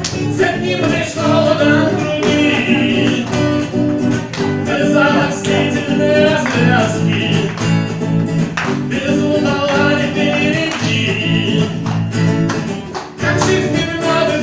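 A voice singing a Russian romance with vibrato, over guitar accompaniment.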